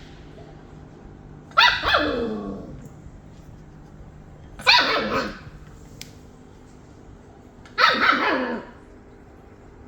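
Golden retriever barking three times, about three seconds apart, each bark falling in pitch.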